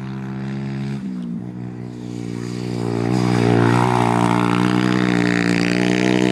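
Small pit bike engine running at high, steady revs. The revs dip briefly about a second in, and the engine grows louder from about three seconds on.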